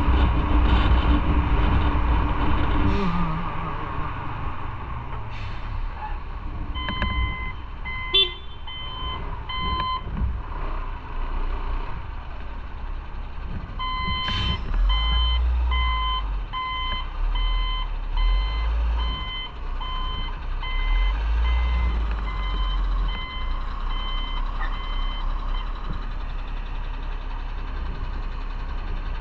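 Motorcycle engine easing off, then running low while an electronic beeper sounds in a series of short, evenly spaced beeps, about two a second. The beeping stops for a few seconds and then starts again.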